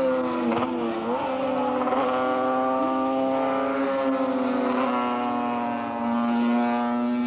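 Several racing motorcycle engines running at once, their overlapping pitches dipping and rising as they rev.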